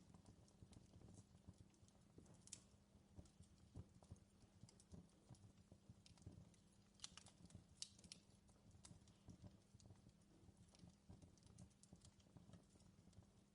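Faint crackling of a wood fire in a fireplace: irregular small pops and snaps over a low steady rumble, with a brief flurry of louder snaps about halfway through.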